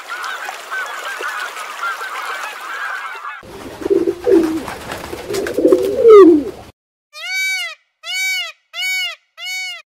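A flock of geese and ducks honking and quacking, many calls overlapping. Then pigeons cooing, with a few sharp clicks, and near the end four short, evenly spaced calls of a peacock.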